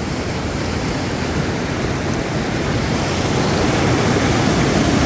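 River rapids: whitewater rushing over rocks, a loud steady noise that grows a little louder near the end.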